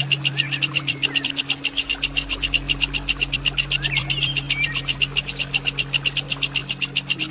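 A songbird's long, rapid rolling trill of even, high-pitched pulses, about eleven a second, held without a break. It is played as masteran tutoring song for competition birds.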